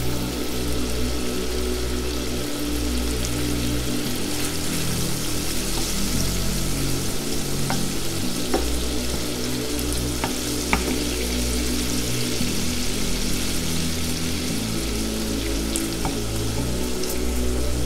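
Shrimp sizzling in garlic and chili oil in a frying pan, stirred with a wooden spoon, with a few light clicks. Background music with sustained low notes plays under it.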